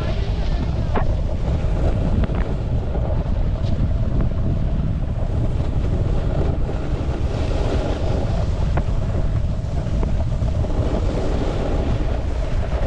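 Wind rumbling on the microphone while a snowboard slides over snow, its base and edges giving a steady scraping hiss under the rumble, with a few light clicks.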